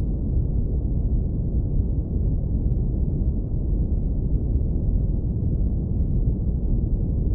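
Steady synthetic brown noise, filtered so that only a deep, warm rumble remains with nothing bright on top.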